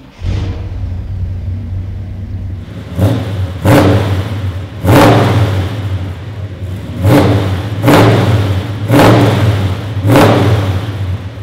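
Rebuilt 396 cid Mark IV big-block V8 with dual exhaust starting right at the outset and settling into a rumbling idle. It is then revved in about seven quick blips, each rise in engine speed falling back to idle.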